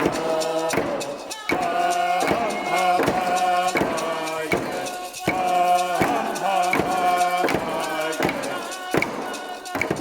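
Men chanting a song in unison over steady drum beats, about one beat every 0.7 seconds.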